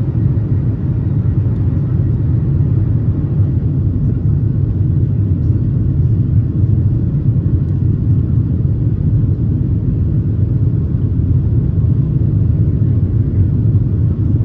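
Steady low rumble of a Boeing 737-700's CFM56 jet engines and the airflow, heard from inside the passenger cabin.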